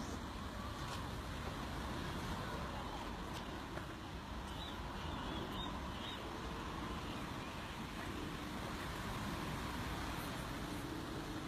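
Steady outdoor background noise, an even low rumble and hiss like distant traffic, with a few faint high chirps about five seconds in.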